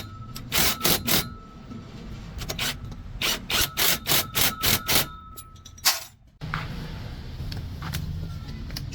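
A series of sharp knocks, a couple in the first second and then a run of about six at roughly three a second, each with a faint ringing tone. About two-thirds of the way in, a steady low hum starts abruptly.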